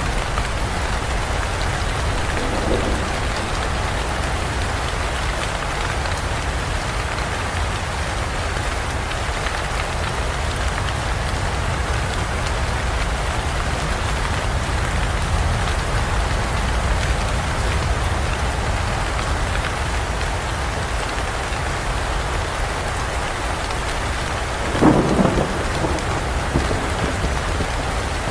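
Steady rain falling in forest, with a low rumble of thunder underneath. A short, sharper thunder peal comes about 25 seconds in.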